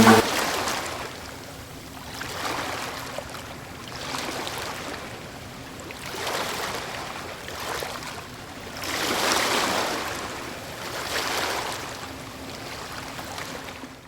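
Rushing, surf-like noise that swells and fades in repeated waves about every two seconds, over a faint low hum. It cuts off abruptly at the end.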